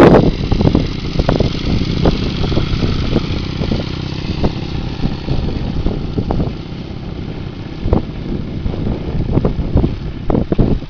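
Motorcycle engine running at low revs, with light wind buffeting on the microphone.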